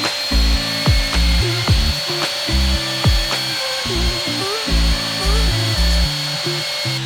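A power tool running steadily with an even high whine, over background music with a deep beat.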